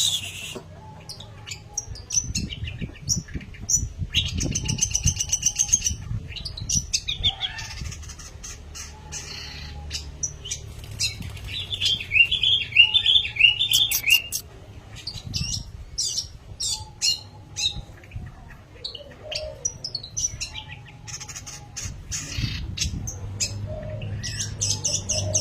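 Long-tailed shrike (pentet) singing without pause: a varied run of sharp chirps, quick trills and harsh squawky notes, over a low background rumble.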